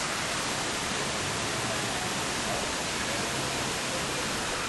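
Steady rushing hiss of falling water from a waterfall, even and unbroken.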